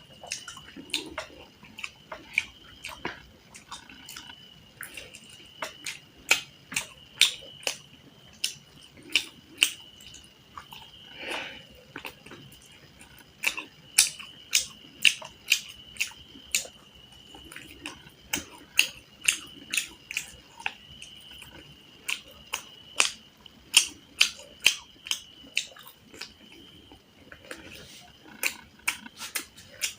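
Close-miked eating sounds: chewing, wet mouth smacks and sharp clicks, coming irregularly and at times several a second. A faint steady high tone runs underneath.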